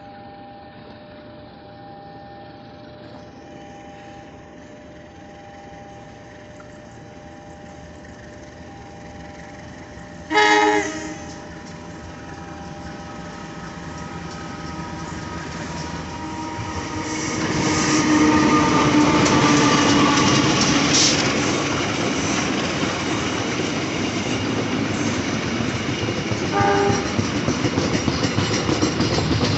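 A train sounds one short, loud horn blast as it approaches the level crossing, then grows steadily louder as it comes through. A second short horn blast follows near the end, and the wheels clack rhythmically over the rail joints as the cars pass.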